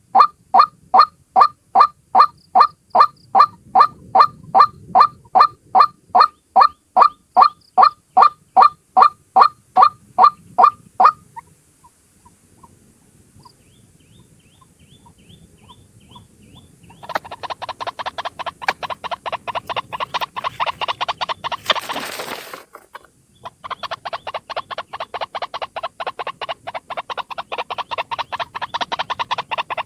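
White-breasted waterhen (ruak-ruak) calling: a loud, regular series of honking notes about three a second, which stops after about 11 seconds. After a pause with a few faint notes, a faster, denser run of calls starts about 17 seconds in, broken by a brief noisy burst and a short gap a few seconds later.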